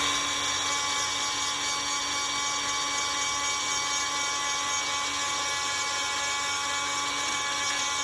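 High-speed rotary grinding tool running at a steady high whine while grinding out delaminated fiberglass on a boat hull.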